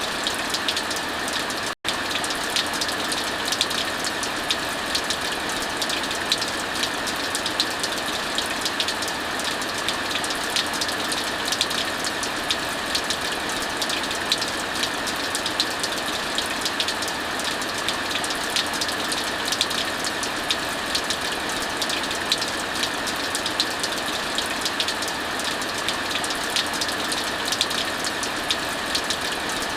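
Heavy rain falling steadily, mixed with the frequent small crackles of a wood fire. The sound cuts out for an instant about two seconds in.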